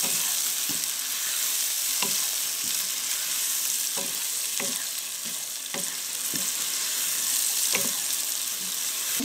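Chicken pieces sizzling in hot oil, a steady high hiss, while being bhuna-fried with ginger-garlic paste and green chillies. A wooden spatula stirs them, scraping and knocking against the pan about once a second.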